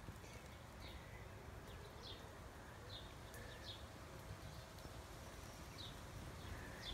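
Faint outdoor ambience: a bird chirping briefly about every second, over a low rumble.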